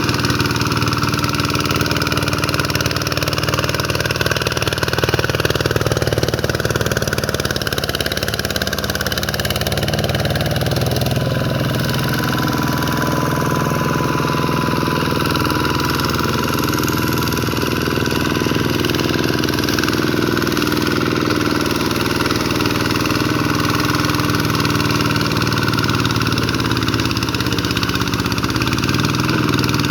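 Vikyno RV 125 hand tractor's single-cylinder diesel engine running steadily, its pitch shifting slightly now and then.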